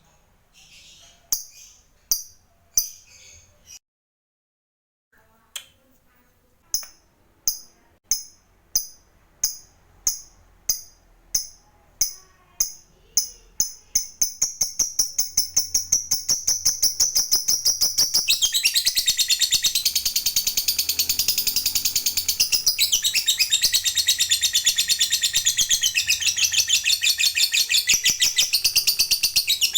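Lovebird ngekek: a few single shrill chirps, a short break, then chirps at about two a second. About 14 seconds in they speed up and run together into a long, continuous, rapid shrill chatter.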